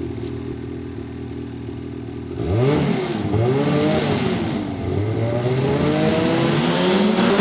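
Ski-Doo 850 E-TEC two-stroke twin snowmobile engine through a DynoPort trail silencer, idling steadily, then blipped three times about two and a half seconds in and revved up to hold at high revs near the end.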